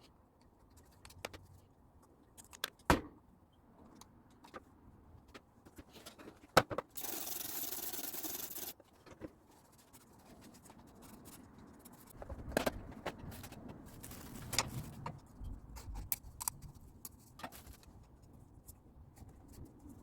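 Used oil-change parts (filter, funnel, drain bolts, crush washer) being handled and cleaned: scattered clinks and knocks, two sharp ones about 3 and 6½ seconds in and a run of them in the last third, with a hiss for nearly two seconds about 7 seconds in.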